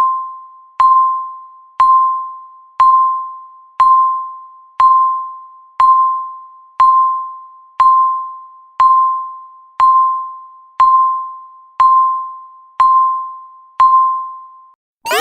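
Countdown timer's tick: a bell-like electronic ding near 1 kHz, struck once a second and fading away after each strike, counting down the last fifteen seconds. Right at the end it stops and a loud electronic alarm of rapid rising sweeps begins as the timer hits zero.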